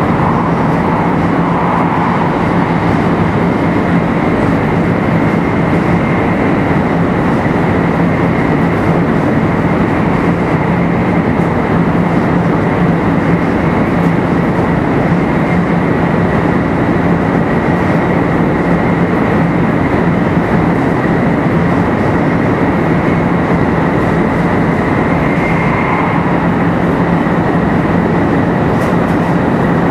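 Running sound of a 500 series Shinkansen car, 527-7707, travelling at a steady speed: a constant, loud rush of wheel and air noise with a steady low hum and a steady high whine, no change in pitch.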